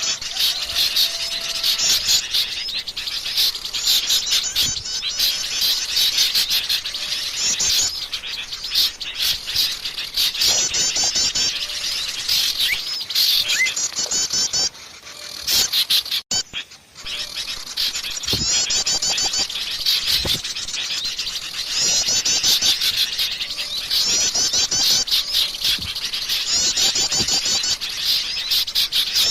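A noisy chorus of many small songbirds chirping and twittering together, with fast high trills repeating in bursts every second or two and a short lull about halfway through. It is a mixed bird-lure recording of several small species, such as bulbuls.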